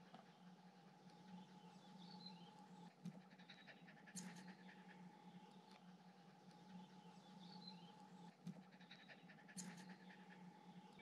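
Faint woodland ambience: a few small birds chirping now and then, with two pairs of soft clicks about a second apart, over a low steady hum.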